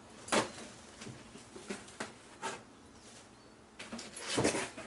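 A few scattered knocks and clicks from a cardboard box being opened and unpacked, with a sharp knock just after the start and a denser bout of rustling and handling near the end.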